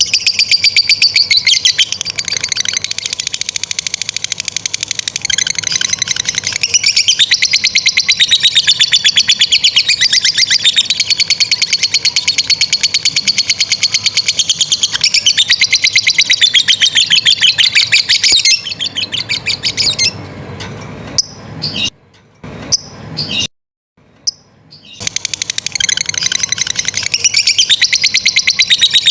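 Lovebird giving its long 'ngekek' chattering song, a very fast, high, unbroken trill that runs for well over ten seconds. About two-thirds of the way in it breaks into short bursts with brief pauses, then the trill starts up again near the end.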